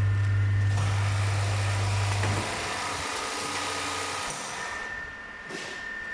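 Automatic rice weighing-and-packing machine running: a strong steady electrical hum that drops out about two seconds in, under a steady hiss that starts about a second in and fades near the end.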